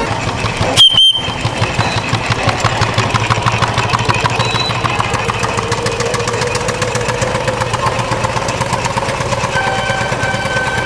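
An engine running with a rapid, even beat. About a second in there is a short, loud, high-pitched tone.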